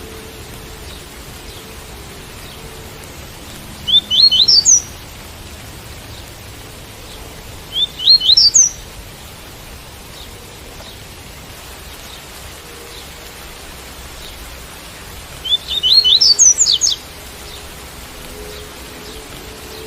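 Double-collared seedeater (coleiro) singing the tui-tui song: three short phrases of quick, rising notes, a few seconds apart, over a steady hiss of rain.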